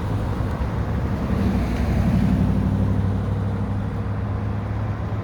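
Pierce Enforcer fire engine's diesel engine running under way with a steady low drone that grows louder about two seconds in, then eases off.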